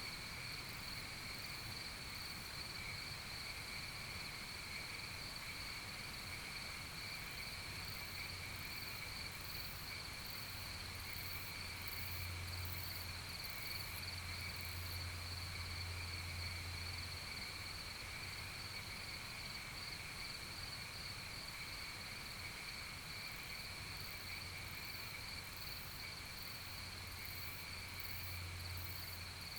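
Crickets chirring in a steady, unbroken chorus, with a faint low hum that swells and fades at times.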